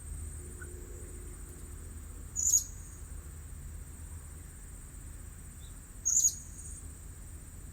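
Blue-crowned hanging parrot (serindit) giving two short, sharp, high-pitched calls about four seconds apart, over a steady high buzz.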